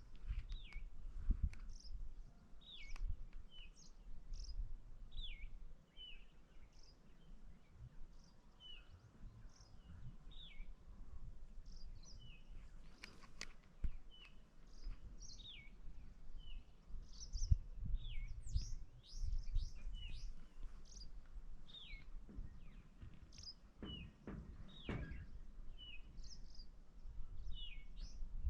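Wild birds chirping: many short, quick, falling notes repeated through the whole stretch, over a low rumble with a few knocks.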